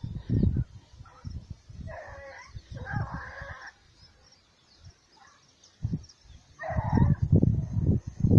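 Hunting dogs baying on a trail, a few short bays at about two, three and seven seconds in, with wind buffeting the microphone in low gusts that grow stronger near the end.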